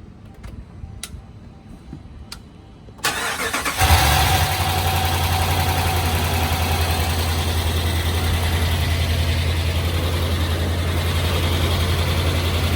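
Dodge Ram's Hemi V8 being started after its lifter repair. A few faint clicks, then the starter cranks about three seconds in, and the engine catches within a second and settles into a steady idle.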